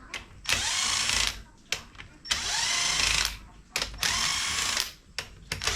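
Handheld power tool running bolts out of an engine being disassembled, triggered in repeated bursts of about a second. Each burst whines up in pitch as the motor spins up, with short clicks between bursts. There are three full bursts, and a fourth starts near the end.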